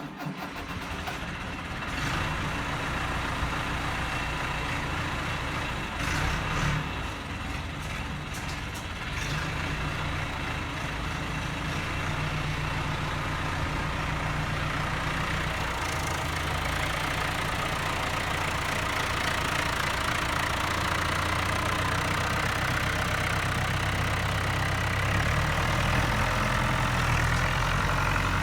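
A vehicle engine running steadily at idle just after being started, with a slight rise in level in the second half.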